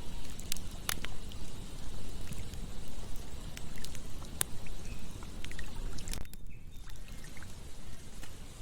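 Campfire crackling, with scattered sharp pops over a steady low rushing noise. The higher hiss briefly drops out about six seconds in.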